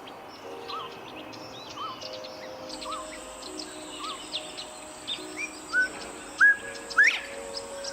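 Several wild birds calling and chirping. One bird repeats a short arched note about once a second, with many quick chirps and whistles over it. Two louder, sharp chirps come near the end, and a thin steady high tone enters about three seconds in.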